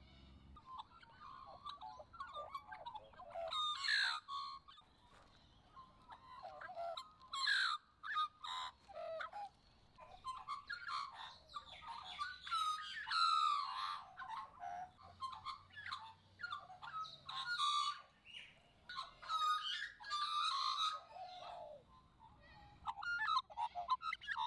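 Australian magpie warbling: a run of varied, gliding, fluting phrases with short pauses between them.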